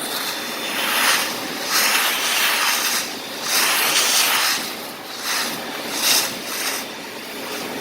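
Industrial vacuum cleaner with a 10 hp compressor-type motor sucking up sand through a 2-inch nozzle: a steady rush of air that swells into louder hissing surges every second or so.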